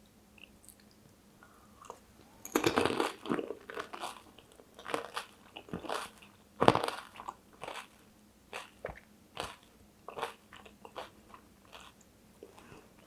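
Pani puri (golgappa) being bitten and chewed close up: crisp shells crunching, with a dense burst of crunches about two and a half seconds in and a sharp one near seven seconds, then spaced chewing crunches that thin out towards the end.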